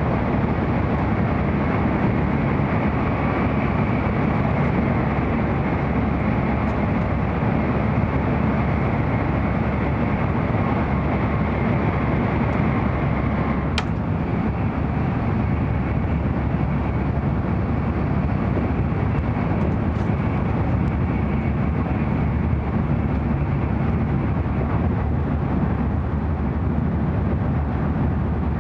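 Cabin noise inside an N700-series Shinkansen passenger car while the train runs: a steady low rumble and rush. A single sharp click comes about halfway through.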